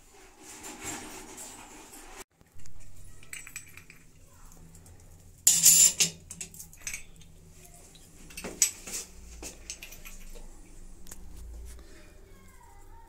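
Metal fittings and hand tools clinking and knocking as they are handled, with a louder clatter about halfway through and a sharp knock a few seconds later.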